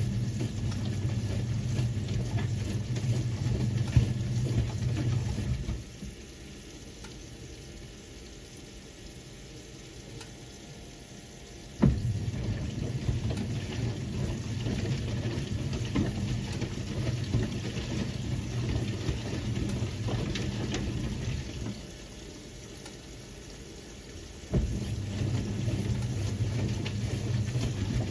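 1978 Siemens WA4600 washing machine tumbling a load of jeans in water: the drum motor runs with a low hum and splashing for several seconds, stops for a few seconds, then starts again with a knock, twice.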